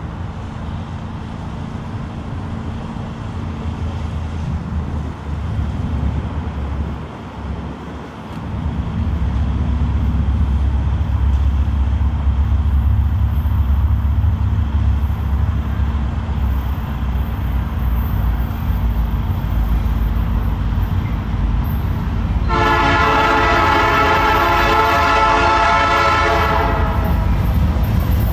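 Canadian National diesel-electric freight locomotives approaching on the main line, a steady low engine rumble that grows louder about eight seconds in. Near the end the lead locomotive sounds its multi-chime air horn in one long blast of about four and a half seconds, the warning for the grade crossing just ahead.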